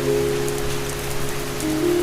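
Steady rain falling and pattering on a surface, under soft ambient music of sustained synth-pad chords that change about three-quarters of the way through.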